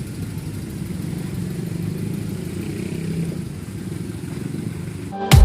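Steady low rumble of a vehicle engine running. Loud electronic music cuts in near the end.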